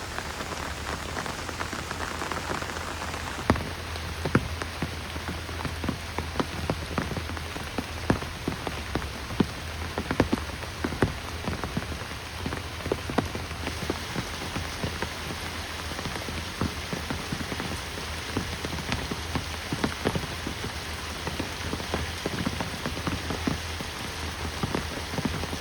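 Steady rain falling, with many sharp, separate drop hits sounding out above the even hiss.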